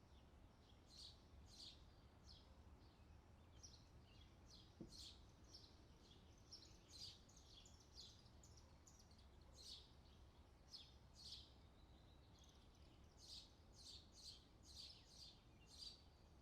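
Faint songbird chirping: many short, high chirps repeating throughout, densest near the end, over a steady low background hum.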